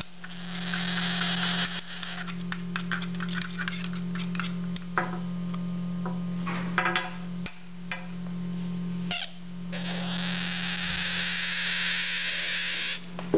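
African grey parrot chicks begging as they are hand-fed: a raspy hissing broken by quick clicks, with a few short pauses, over a steady low hum.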